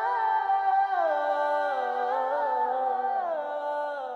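A single unaccompanied voice humming a slow, wordless melody in a devotional song, holding notes and gliding down between them.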